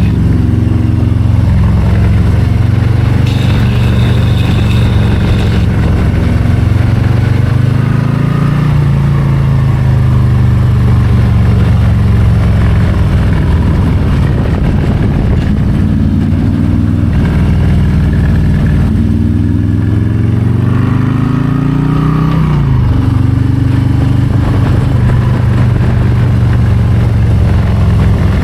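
2022 Harley-Davidson Low Rider ST's Milwaukee-Eight 117 V-twin running hard through a run of curves, its revs rising and falling several times as the throttle is rolled on and off, with a sharp climb and sudden drop about three-quarters of the way through.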